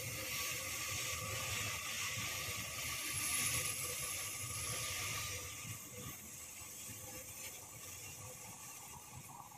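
Open coal wagons of a long freight train rolling past, steel wheels clattering over the rails with a faint steady whine; the noise eases off after about five seconds.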